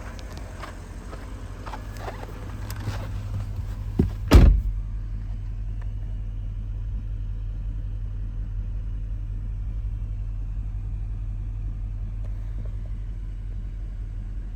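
2015 Porsche Panamera Turbo S twin-turbo V8 idling with a steady low hum. Scattered clicks come in the first few seconds, then a loud double thump about four seconds in, after which the sound turns duller.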